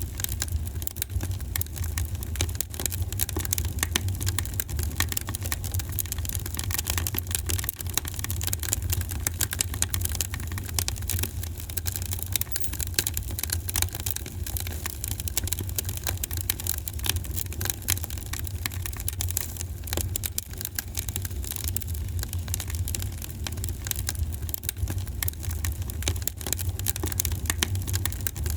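Wood fire in a fireplace burning steadily, with a low rumble under frequent irregular crackles and pops.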